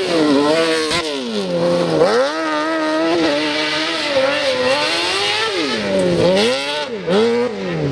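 Yamaha R6 inline-four motorcycle engine in an off-road sand rail buggy, revving hard. Its pitch climbs and falls again and again as the throttle is opened and closed, with sharp drops about two seconds in and several times near the end.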